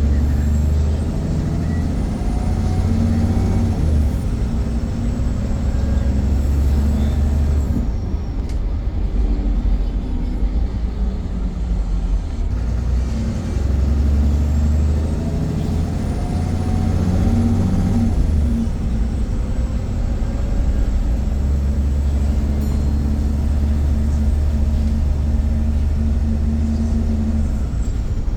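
VDL Pulsar single-deck bus heard from on board, its engine and drivetrain pulling up through the speeds twice with a steady rumble in between. Each time a high whine rises with the acceleration and then holds level before dropping away.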